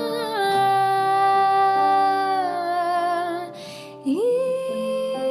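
A singer holding a long, wavering note over soft sustained accompaniment. About three and a half seconds in there is a breath, then the voice slides up into a new held note.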